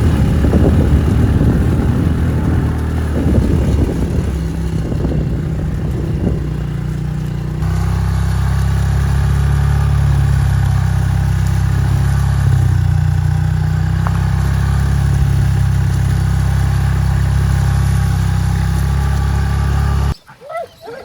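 Motor vehicle engine running steadily while driving, with rough jolting rattles in the first several seconds; the engine sound cuts off suddenly near the end.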